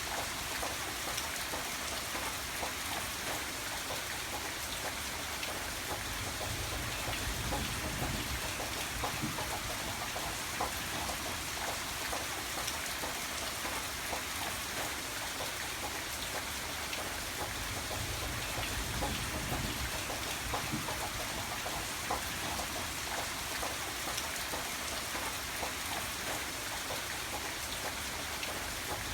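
Steady rain, with many close drop ticks over an even hiss. A low rumble swells and fades twice, once about seven seconds in and again near twenty seconds.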